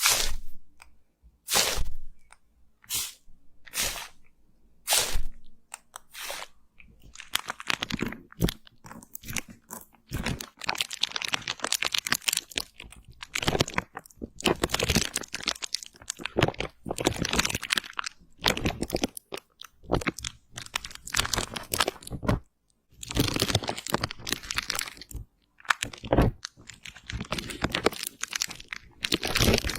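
Close-miked ASMR crunching and crackling: a few separate crunches at first, then dense runs of crackling with brief pauses.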